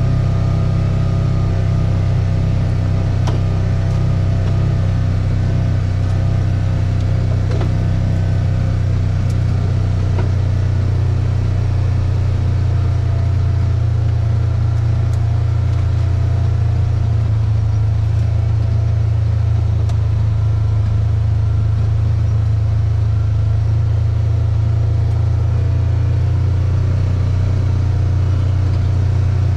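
Steady low drone of a vehicle heard from inside the cabin, running at an even level throughout.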